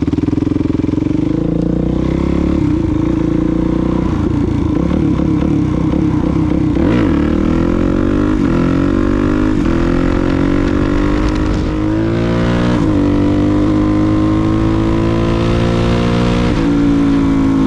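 Suzuki DRZ400SM's single-cylinder four-stroke engine running under throttle while ridden, its revs climbing slowly with several brief dips along the way.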